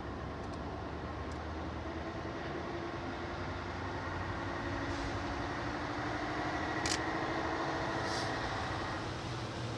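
Diesel locomotive engine of a freight train running steadily, growing a little louder in the second half, with a few faint clicks.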